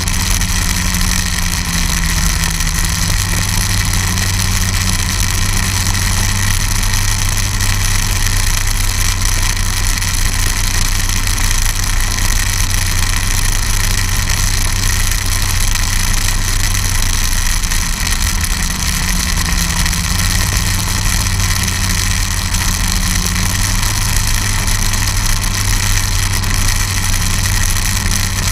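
Snowmobile engine running steadily at an even speed, with a brief dip in pitch about two-thirds of the way through before it settles again.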